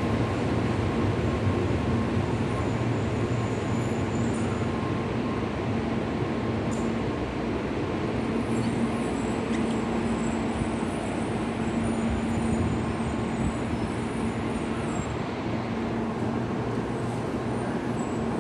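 Tokaido Shinkansen train running steadily, heard from inside the passenger cabin: an even rumble and rush with a steady low hum.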